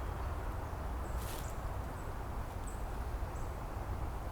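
Outdoor ambience: a steady low rumble like wind on the microphone, with faint short high-pitched chirps about once a second and a brief rustle about a second and a half in.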